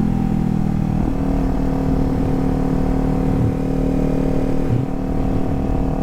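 Kawasaki Z400's parallel-twin engine running at a steady, even pitch while the motorcycle is ridden.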